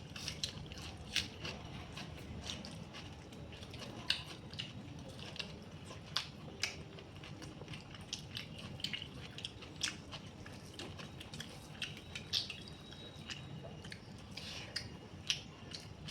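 A person chewing chicken curry and rice close to the microphone: wet mouth sounds with many short, irregular clicks and smacks.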